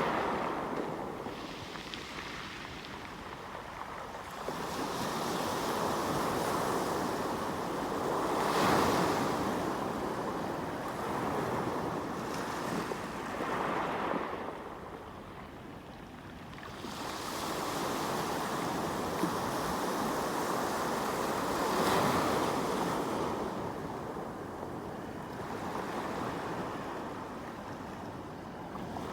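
Sea waves breaking on the shore and washing back, swelling and ebbing in slow surges every several seconds, with the biggest breaks about 9 and 22 seconds in.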